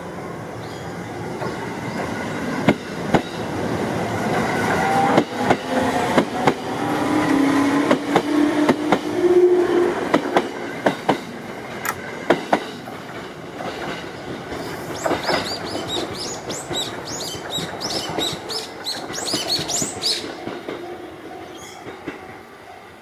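Electric commuter train running through the station: a rising motor whine and sharp clicks of the wheels over rail joints, then high-pitched wheel squeal about two-thirds of the way in, fading toward the end.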